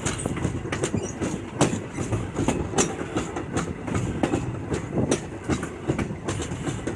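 Passenger railroad car rolling along the track: a steady rumble of wheels on rail, with irregular clicks and knocks as the wheels pass over rail joints and the car rattles.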